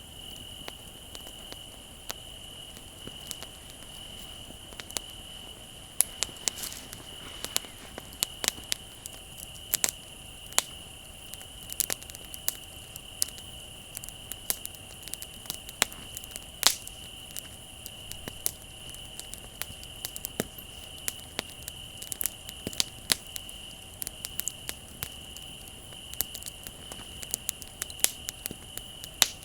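Bonfire crackling, with frequent sharp pops and snaps of burning wood, over crickets chirping steadily.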